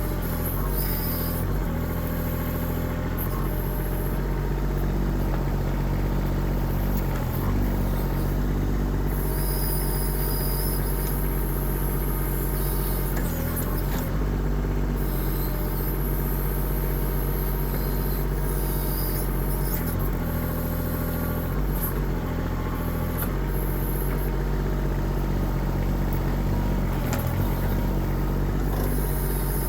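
Kubota diesel engine of a 1.6-ton mini excavator running steadily, its note shifting briefly several times.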